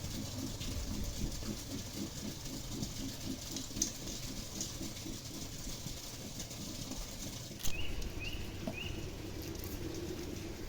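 Pigeons cooing in a low, rolling pulse, with three short high chirps about eight seconds in.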